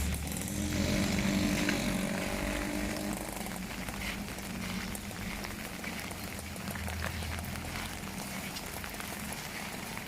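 Steady rain pattering, with many fine drop ticks, while a passing vehicle's engine hum fades away over the first few seconds.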